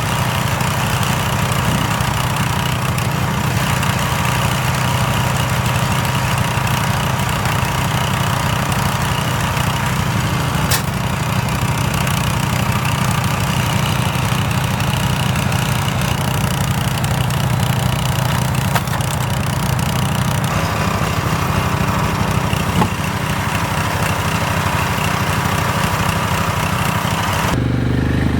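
An engine running steadily at a constant speed. Near the end the sound changes abruptly and the hissy upper part drops away.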